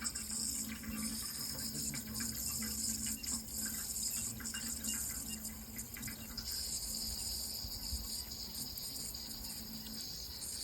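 Water running steadily in a continuous rush, with a low steady hum underneath.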